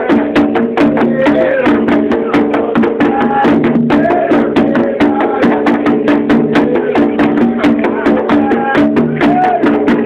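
Candomblé ceremonial music: percussion keeps a fast, even beat of sharp strikes, with voices singing over it.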